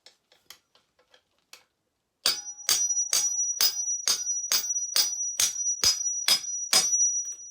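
About eleven sharp hammer blows, roughly two a second, on a makeshift metal punch driving out a dirt bike's engine mount bolt, each strike ringing like struck metal. The blows start about two seconds in, after a few faint clicks.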